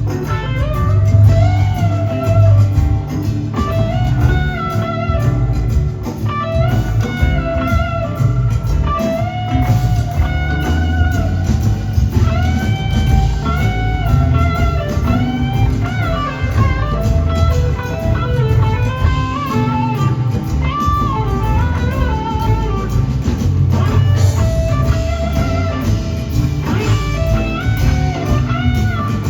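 Live blues-rock band jamming: an electric lead guitar plays a long solo of bent, gliding notes over bass guitar and drum kit.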